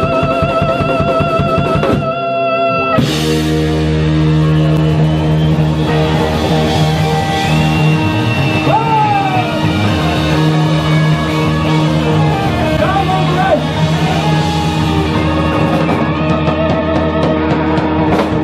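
Live blues-rock band playing. A held, wavering note breaks off about two seconds in, then the band comes back in on a long sustained chord while a lead guitar bends notes over it.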